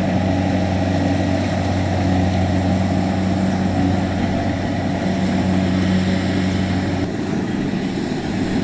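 Kubota DC70X rice combine harvester running steadily with a low engine hum, which drops away about seven seconds in.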